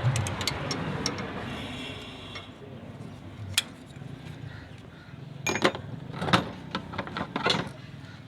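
Hand tools clinking and clicking against the valve rocker-arm adjusters of a Honda BR-V engine during a tappet clearance adjustment. The clicks come singly and in a short cluster in the second half.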